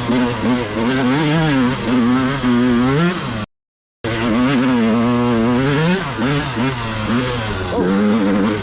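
Two-stroke dirt bike engine being ridden hard, its pitch rising and falling over and over as the throttle is worked and the gears change. The sound cuts out completely for about half a second partway through.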